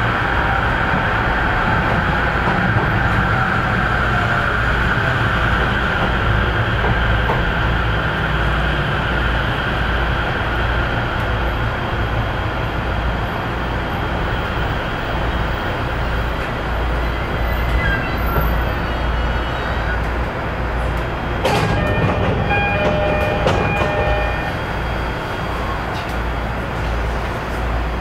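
Train running on the Narita Line, heard from inside the carriage: a steady rumble of wheels on rail, with a high whine that slowly falls in pitch during the first half. About two-thirds of the way through come a short clatter and a few brief tones.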